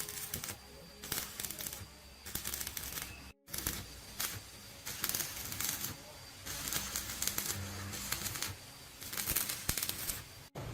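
Rapid clicking and clattering of hand tools at work, in several short stretches broken by sudden cuts.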